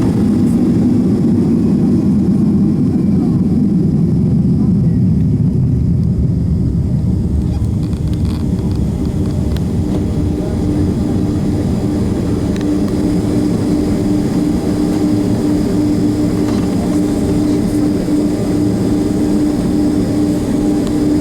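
Boeing 767-300 jet engines and airflow heard from inside the passenger cabin: a loud, steady rush with a constant hum running through it, easing slightly partway through.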